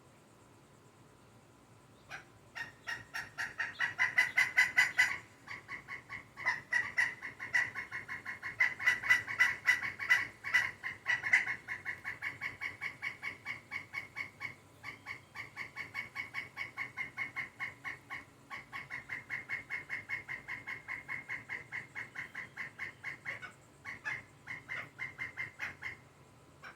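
A woodpecker calling: a long run of rapid, evenly spaced sharp notes, about five a second, starting about two seconds in and going on with a few brief breaks.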